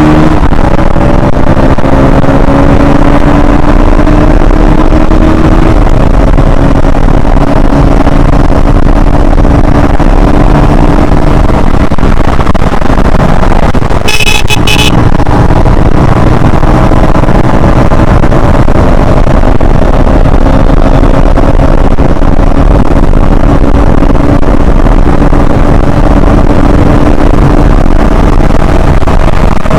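KTM Duke 160's single-cylinder, liquid-cooled four-stroke engine held at high revs on a top-speed run, its pitch climbing slowly, under heavy wind noise. About halfway through, a horn gives a short toot.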